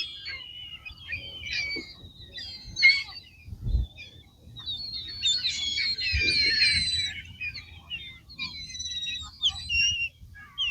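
A flock of birds calling and chattering over the water, many short overlapping chirps and calls, densest about halfway through. A couple of brief low thumps come under them.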